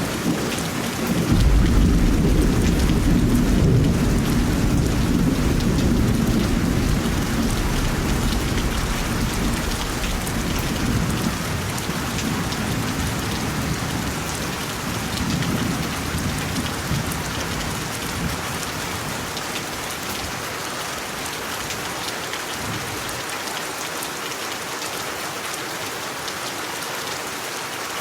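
Steady rain pattering down, with a long roll of thunder that rumbles in about a second in and slowly dies away over the next twenty seconds, leaving only the rain.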